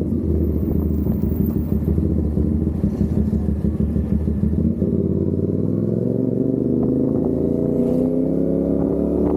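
CFMOTO 450SR's parallel-twin engine running under way, its pitch climbing gradually over the second half as the bike speeds up.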